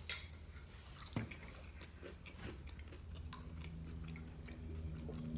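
Someone biting into crispy fried chicken, two crunches about a second apart, then chewing with small crackles. A low steady hum comes in a little past the middle.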